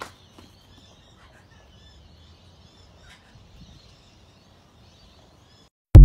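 Faint chirping of birds, with a small click near the start. Just before the end, the loud TikTok end-screen jingle cuts in with a deep thump.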